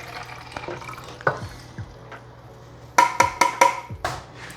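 Vinegar-and-water descaling mix being poured into a Nespresso machine's water reservoir, then a quick run of about five light clinks with a short ringing tone, about three seconds in.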